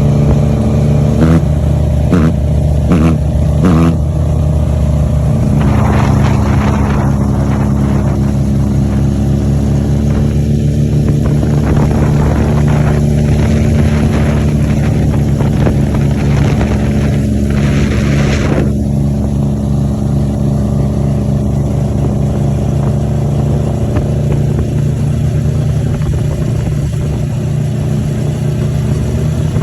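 Yamaha MT-09's three-cylinder engine through an Arrow aftermarket exhaust, idling and revved by the throttle: four quick blips in the first few seconds, then longer revs that rise and fall, before it settles back to a steady idle.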